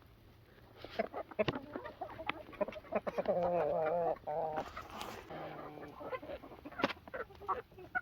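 Chickens clucking, with a wavering, warbling call held for about a second a few seconds in, among many short sharp taps.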